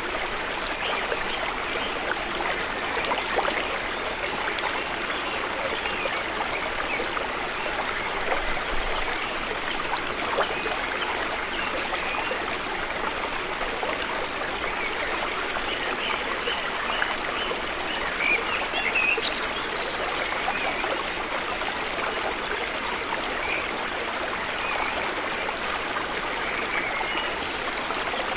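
River water flowing steadily, a constant rushing and burbling. About two-thirds of the way in there is a brief high chirp.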